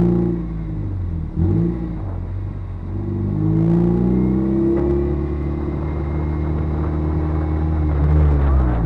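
Car engine running under load with a brief dip about a second and a half in, then revving with a slow rise in pitch, and dropping off right at the end.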